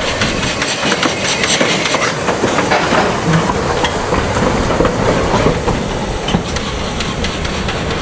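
Vale of Rheidol Railway's 2-6-2T steam tank locomotive No. 8 and its narrow-gauge train: a steady hiss of steam with many clicks and knocks of wheels and rolling stock.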